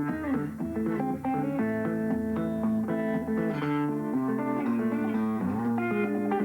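Guitar played in the Muhlenberg thumbpicking style: a picked melody over a steady bass line.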